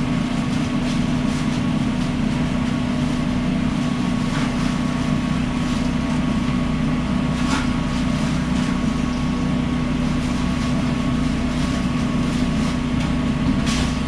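Steady machine drone of a food truck's running equipment, with a few faint clicks.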